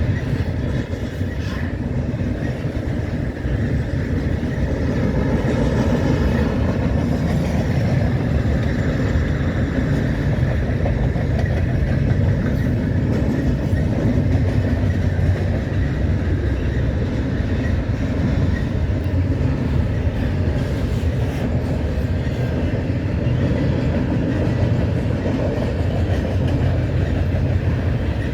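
Cars of an intermodal freight train rolling past at a steady speed: a continuous rumble of steel wheels on the rails.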